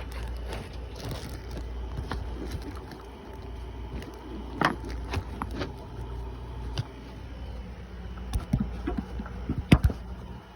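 Scattered sharp clicks and knocks of hand tools and engine parts being handled during engine reassembly, two of them louder, about halfway and near the end, over a steady low rumble.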